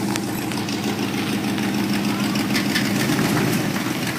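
A vehicle engine idling steadily, with a fast, even low pulse.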